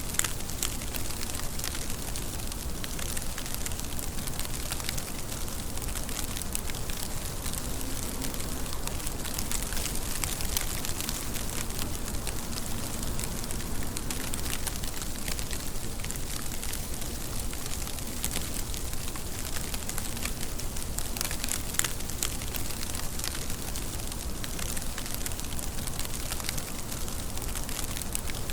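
Steady rain falling, a dense even hiss with many fine, quick drop ticks and no let-up.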